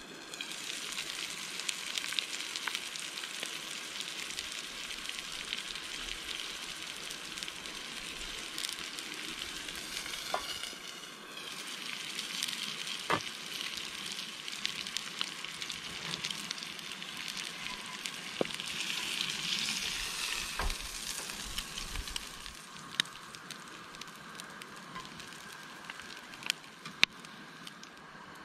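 Eggs and mushrooms frying in a cast-iron skillet on a camp stove: a steady sizzle full of fine crackles and spatters, with a few sharp clicks.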